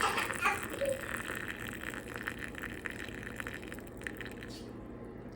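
Water being poured into a cup to make tea: a steady pouring hiss that fades out about four seconds in.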